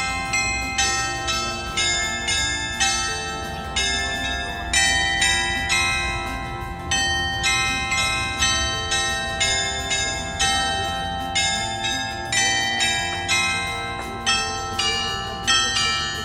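Tuned bells playing a slow melody, one struck note about every three quarters of a second, each ringing on as the next begins.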